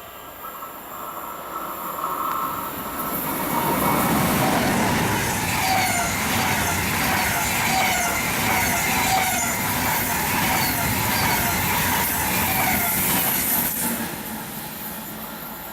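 A train passing on the line. It grows louder over the first few seconds and holds loud for about ten seconds. Through the loud part a short pitched pattern repeats about every two-thirds of a second, and then the sound fades near the end.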